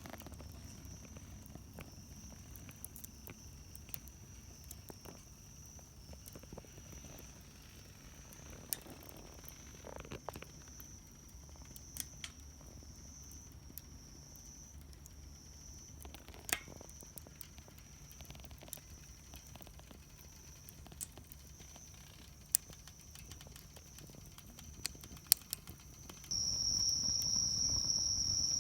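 Wood fire crackling in a Solo Stove Campfire, with scattered sharp pops, over a steady chirring of insects such as crickets. Near the end a louder, closer insect chirr starts up.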